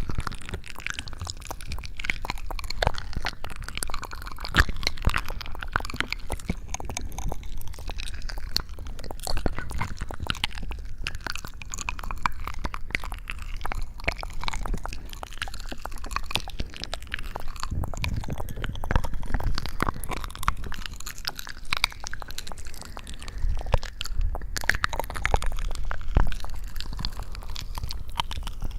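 Close-miked ASMR sounds: dense, continuous crackling and crunching clicks with soft squishing, no voice.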